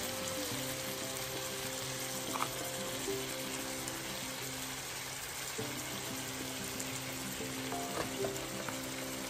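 Corned beef and taro leaves sizzling steadily as they fry in a wok, with a few light clicks.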